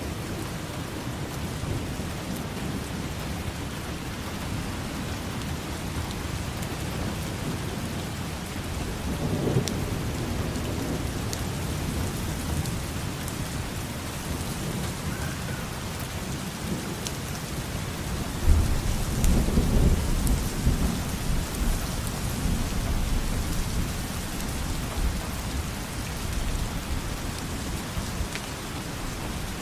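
Steady rain falling, with rumbles of thunder: a brief low rumble about ten seconds in, and a louder, longer roll of thunder starting suddenly a little past halfway and fading over several seconds.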